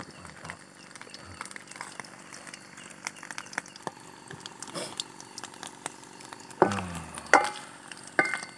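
Food frying in oil in a wok over a wood fire: a steady sizzle with many small crackles and pops. About seven seconds in, two louder short sounds break in.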